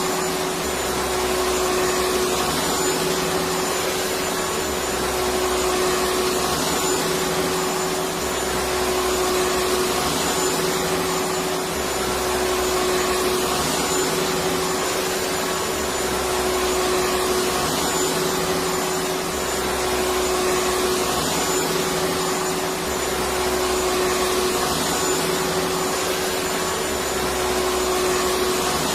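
Vacuum cleaner motor running steadily: a dense rushing noise with a steady hum and a thin high whine, swelling and easing slightly every few seconds.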